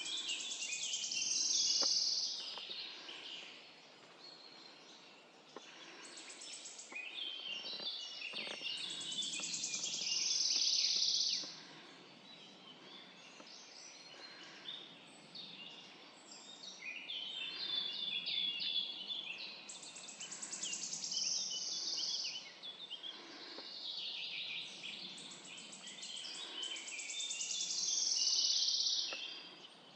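Woodland songbirds singing: one bird repeats a song phrase of about three seconds every several seconds, each phrase ending in a dense high trill, with quieter bird calls in between.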